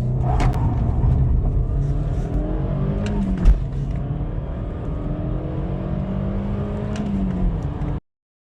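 Audi A3 8P under full-throttle acceleration: the engine note climbs steadily through a gear, drops with a knock at an upshift about three and a half seconds in, then climbs again through the next gear before another shift near the end. The sound cuts off abruptly shortly before the end.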